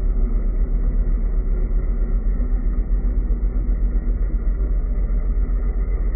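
Heng Long Leopard 2A6 1/16 RC tank running, a steady low engine-like rumble with the whirr of its electric drive motors and plastic gearboxes.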